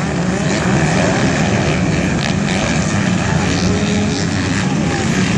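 Motocross motorcycle engines running and revving on the track, a steady loud buzz with shifting pitch.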